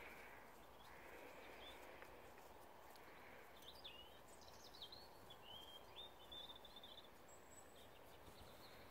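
Near silence: faint outdoor ambience, with a bird chirping a few times in the middle.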